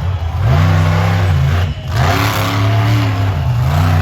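Monster truck engine revving hard, its pitch climbing and falling, with a brief drop in throttle a little under two seconds in.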